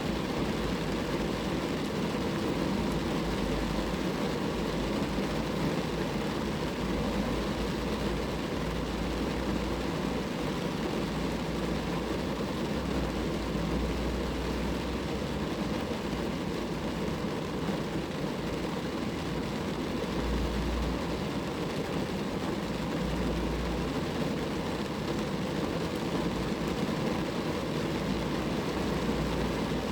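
Rain falling steadily on a car, a continuous even rushing noise with a low rumble underneath.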